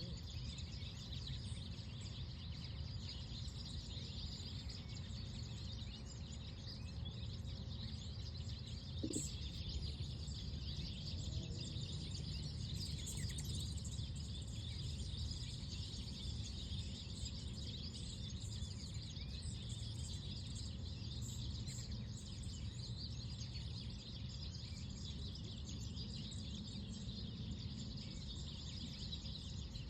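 Outdoor park ambience: a steady low rumble with a soft hiss above it, and scattered faint bird chirps.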